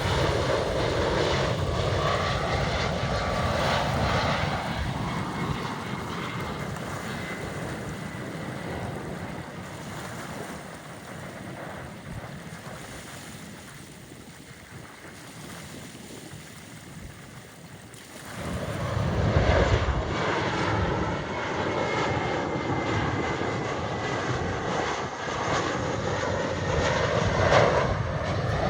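Airliner engines passing, the sound wavering in pitch and slowly fading away. About two-thirds of the way through, another aircraft's engines come in loud and steady.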